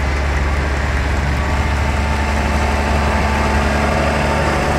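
An engine idling steadily, a deep even hum with fainter steady tones above it.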